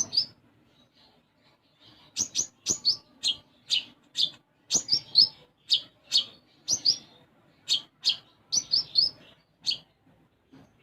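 A konin songbird singing a fast series of short, sharp chirps, each sweeping down in pitch, about two a second with a few quick doubles and triples. These are its sparrow-like 'isian gereja' phrases, copied from the Eurasian tree sparrow.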